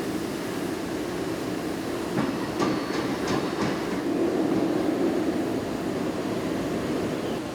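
Factory machinery running with a steady rumble, and several sharp metal clanks that ring briefly about two to four seconds in, as steel parts knock against metal.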